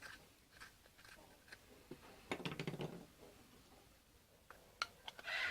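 Faint clicks and light rattling of a small plastic-and-metal drill-bit sharpener attachment being handled, with a short burst of quick rattling clicks about two and a half seconds in.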